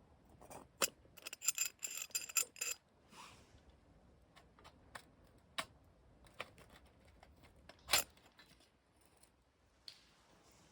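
Small hard objects being handled: a quick run of ringing, metallic clinks in the first few seconds, then scattered light clicks and one louder knock near the end, typical of camp cookware and gear being moved about.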